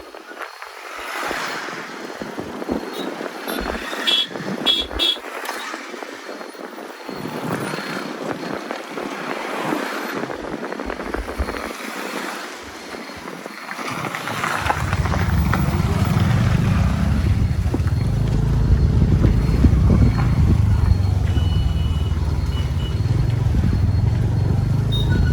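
Road noise of a moving scooter in traffic, with short horn toots about four to five seconds in and again near the end. From about halfway, heavy wind buffets the microphone as the ride goes on.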